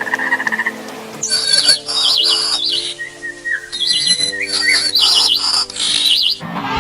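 A songbird calling in quick high chirps and rapid warbling phrases, repeated several times, over soft background music with held notes. A short pulsing trill sounds just before the bird starts.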